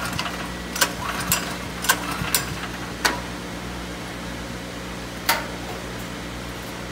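Sharp clicks and knocks, about six of them, from hands working the fuel cap and plastic tank top of a Ryobi portable generator while the fuel is checked, over a steady low hum.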